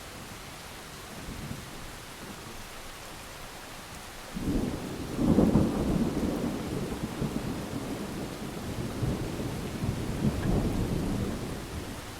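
Steady heavy rain with a thunderclap about four seconds in that rolls on as a low rumble, swelling again near the end before fading.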